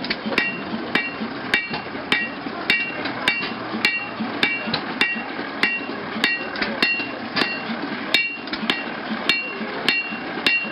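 Hand hammer forging metal on an anvil in a steady rhythm, a little under two blows a second, each blow with a short bright ring from the anvil.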